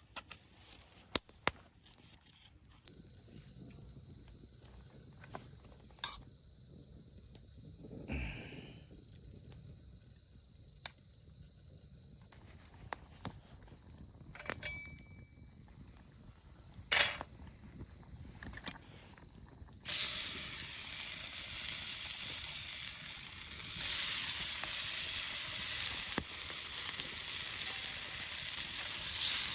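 Night insects singing in one steady high trill, with scattered sharp crackles from a wood campfire. About twenty seconds in, a loud sizzling hiss starts and keeps going.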